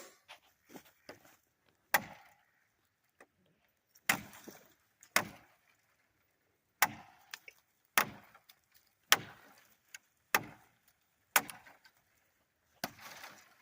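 Maxace Vortex folding knife chopping into oak branches: about nine sharp strikes, roughly one a second, several followed by a brief rustle of the twigs.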